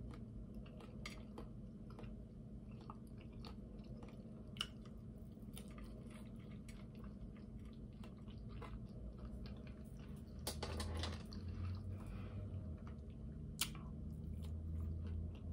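Faint close-up chewing and mouth noises from eating fried chicken, with scattered small clicks, two of them sharper. A low hum grows louder about ten seconds in.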